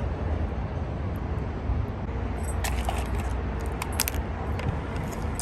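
Light clicks and clinks of small hard objects being handled, coming in a run from about two seconds in, over a steady low rumble.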